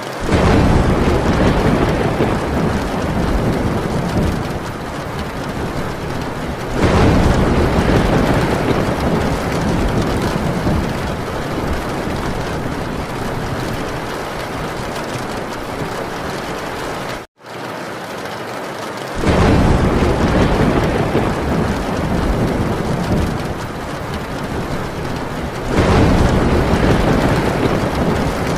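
Heavy rain drumming steadily on a tin roof, with thunder rolling in four times, each roll starting suddenly and dying away slowly. The sound cuts out completely for a split second a little past the middle.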